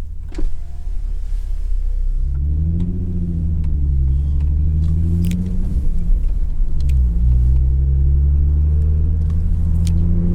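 2011 Ford Mustang's 3.7-litre V6 engine pulling away and accelerating, its pitch climbing steadily. About seven seconds in the revs drop at a gear change, then climb again.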